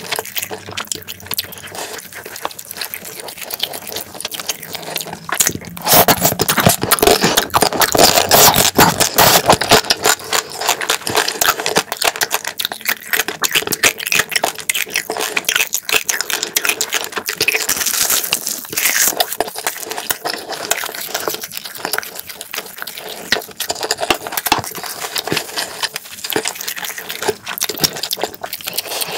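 Close-miked wet chewing and lip-smacking of a mouthful of egg fried rice and spicy marinated crab, with many small sticky clicks, loudest about six to ten seconds in.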